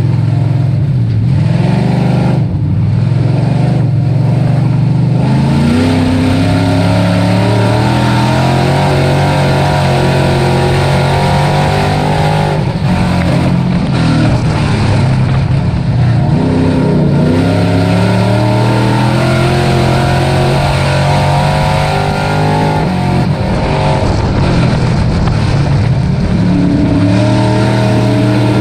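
Dirt-track race truck engine at racing speed, climbing in pitch as it accelerates and dropping back as the throttle lifts, again and again.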